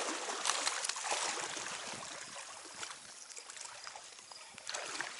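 Creek water running in an even hiss that fades after the first second or two, with scattered small clicks and splashes.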